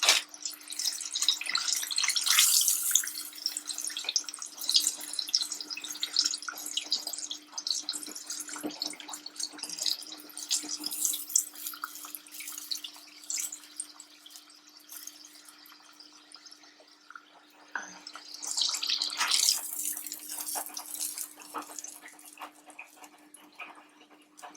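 Chicken breast pieces frying in hot oil, a crackling sizzle that swells louder about two seconds in and again around nineteen seconds. A steady low hum runs underneath.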